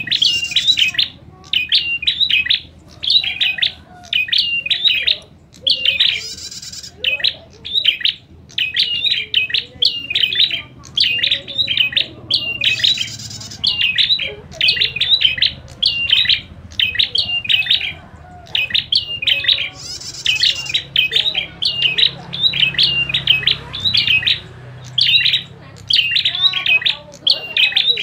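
Prinias (prenjak) giving agitated fighting calls: short, loud chirping phrases repeated about once a second without a break, with a brief hissy burst about every seven seconds.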